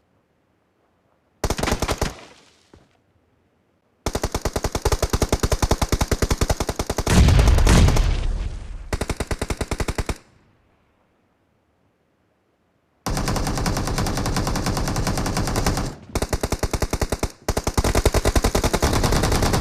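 Automatic gunfire in a shooter video game: long rapid bursts of machine-gun fire broken by stretches of dead silence. There is a short burst about a second and a half in, a long one from about 4 to 10 seconds with heavier, deeper blasts around 7 to 8 seconds, and another long run from about 13 seconds on.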